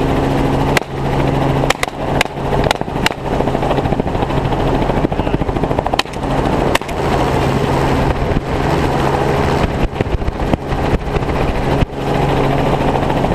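Helicopter in flight, heard from inside the cabin: a loud, steady drone of rotor and engine with a low hum. Several brief crackles break it, mostly in the first three seconds.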